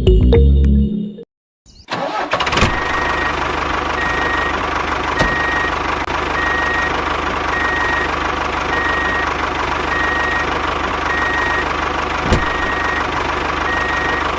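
Music cuts off, and about two seconds in a tractor engine starts and runs steadily. Over it, a high beep repeats evenly about once a second, and a few sharp clicks sound.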